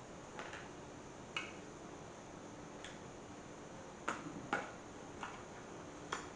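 A tool working at the old rear main seal in an LS engine's rear engine cover: scattered sharp, light clicks and taps of metal, about seven in all, the loudest a close pair about four seconds in.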